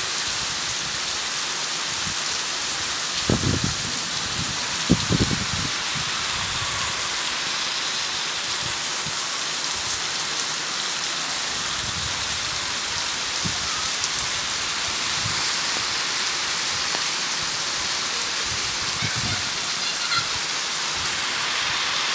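Heavy rain pouring steadily onto clay-tiled roofs and trees, an even hiss throughout. A few brief low thumps break through, the loudest about three and five seconds in.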